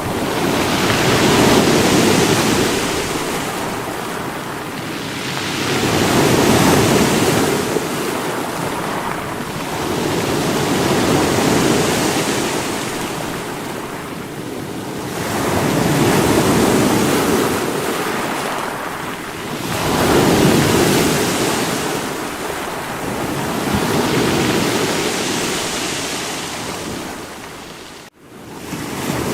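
Sea waves breaking against rocks, the surf swelling and falling away about every four to five seconds. The sound drops out for an instant about a second before the end.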